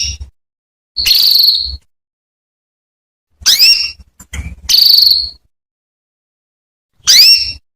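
Female domestic canary calling: a string of high whistled calls with pauses between, short ones that rise quickly in pitch and longer ones held on one steady note. These are the contact calls used to prompt a male canary to sing.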